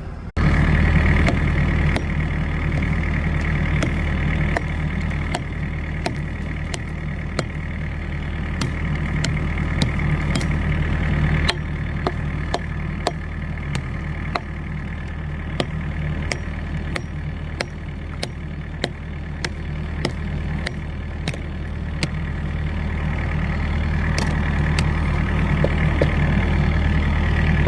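Diesel engine of a compact tracked construction machine running steadily under work, with frequent sharp clicks and knocks from the machine working frozen ground.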